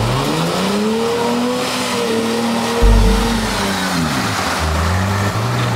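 Jeep Wrangler's engine revving up and easing off again as it crawls through deep mud, with a heavy thump about three seconds in.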